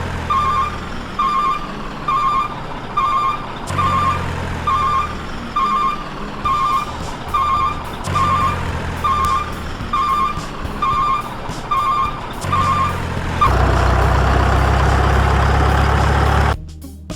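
A truck's reversing alarm beeping about twice a second over a low engine rumble. Near the end it gives way to a loud steady rumble and hiss for about three seconds, which stops suddenly.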